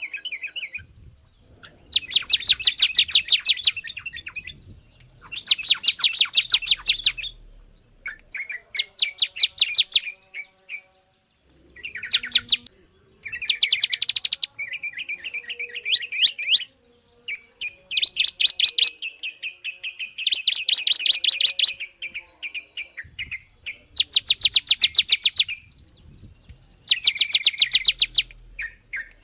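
A songbird singing loud, fast trills: bursts of rapid, evenly repeated high notes, each lasting one to two seconds, broken by short pauses.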